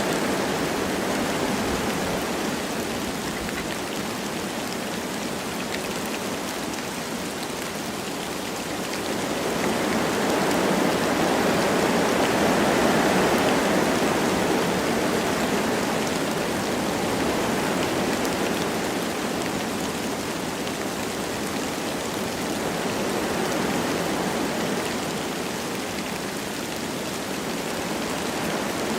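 Wind blowing through forest trees with light rain falling: a steady rushing noise that swells and eases in slow gusts, loudest about ten seconds in and again near the end.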